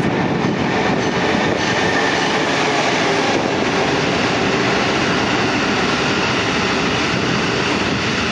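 New Jersey Transit passenger train passing through the station at speed on the far track: a steady, loud rumble of wheels on rail.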